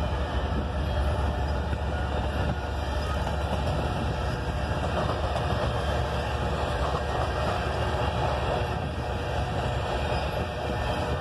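Empty covered grain hopper cars of a freight train rolling past, with a steady noise of steel wheels running on the rails.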